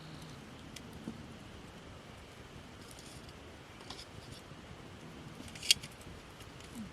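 Wood campfire crackling: a steady low hiss with scattered small pops, and one loud sharp snap late on.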